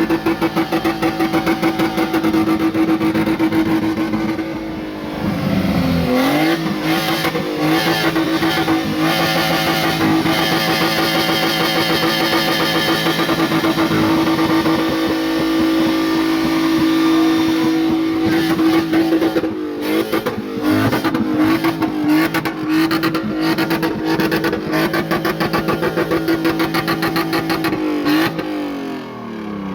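A BMW's engine held at high, steady revs for long stretches. The pitch drops and climbs back about five seconds in, and falls away again near the end.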